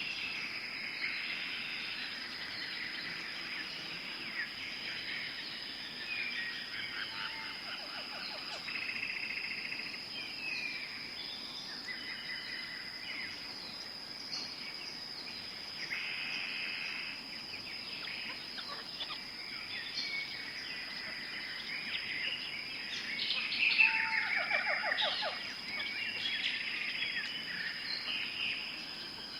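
Tropical forest ambience: a steady, high-pitched insect drone with many birds calling, chirping and trilling over it. The birdsong is loudest and busiest near the end.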